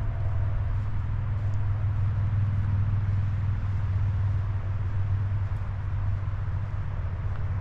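Steady low rumble of road traffic, swelling slightly a couple of seconds in as a vehicle passes.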